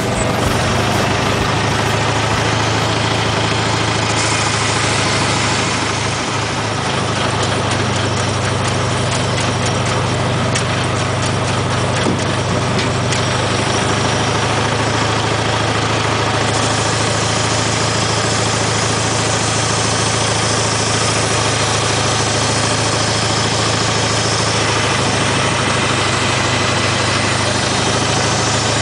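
IHC tractor engine running steadily at idle, a constant low hum.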